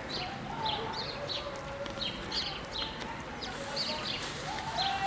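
A small bird chirping over and over, short falling chirps about twice a second, over a low outdoor background.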